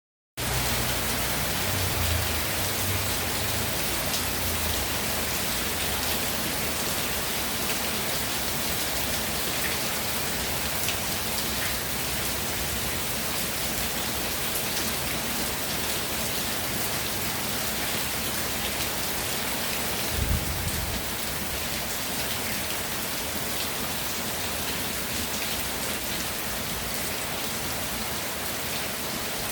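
Steady rain falling, a dense even hiss with scattered individual drops ticking. A brief low thump comes about twenty seconds in.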